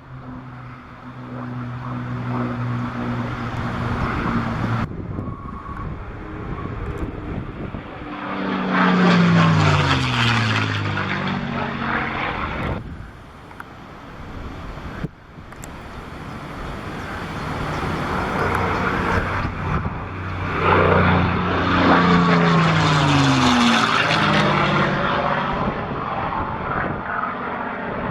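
P-51 Mustang's Merlin V12 engine and propeller in two fly-bys. Each grows loud and drops in pitch as the plane passes overhead.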